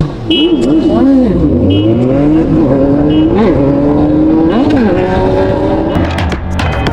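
High-revving sport-bike engine accelerating hard, its pitch climbing and then dropping sharply at each gear change. Music with a beat comes in near the end.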